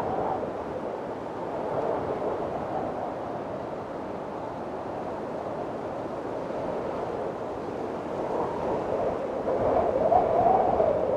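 Windstorm: strong wind blowing in gusts, with a wavering moaning tone that rises and falls in pitch and swells louder near the end.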